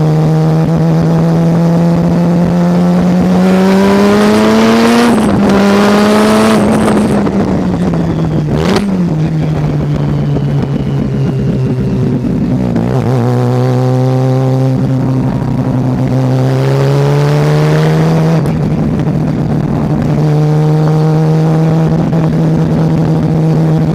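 Mazda RX-7 race car's rotary engine driven at racing pace, its note holding, climbing and dropping away as it goes through the gears and corners. There is a sharp knock about nine seconds in.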